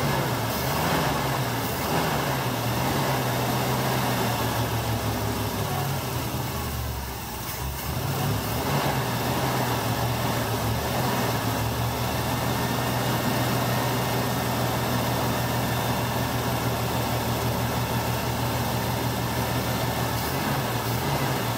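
Freshly rebuilt 327 Chevrolet small-block V8 running steadily at idle during its break-in. Its speed sags briefly about seven seconds in, then picks back up.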